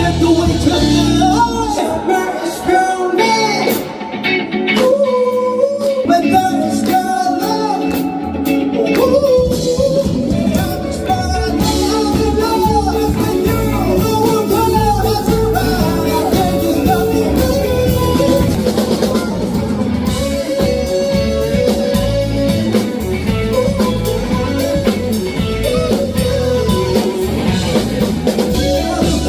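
Band music with a singer, guitar and drum kit. The low end and drums drop away for a few seconds near the start, then the full band comes back in.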